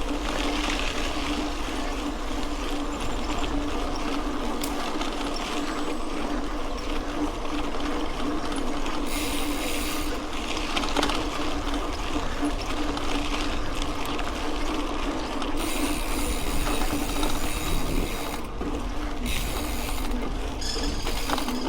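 Mountain bike rolling along a dirt road: tyres crunching on gravel and the bike's parts rattling over the bumps, over a steady hum.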